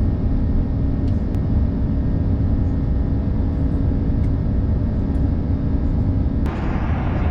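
Airliner cabin noise in flight: a steady low rumble of engines and airflow with faint steady tones. About six and a half seconds in it changes abruptly to a brighter hiss.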